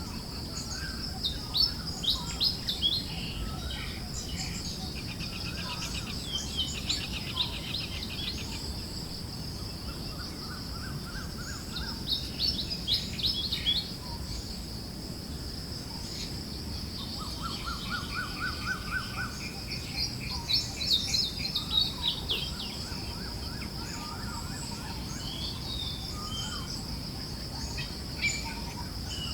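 Forest birds chirping and trilling, with several overlapping calls that come in louder bunches. Behind them are a steady high hiss and a soft low rush of wind.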